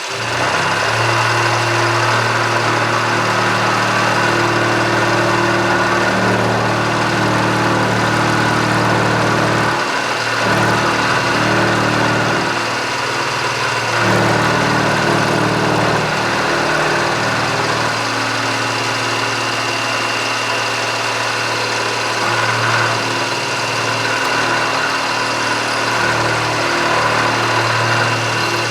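Milling machine running and cutting a pass across a metal part: a steady motor hum with cutting noise over it, its note shifting now and then as the cut goes on.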